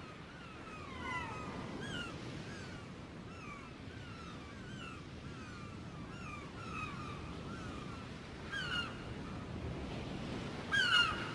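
A flock of gulls calling: many short, falling cries overlapping one another, with louder calls about nine seconds in and near the end. A low steady rumble runs underneath.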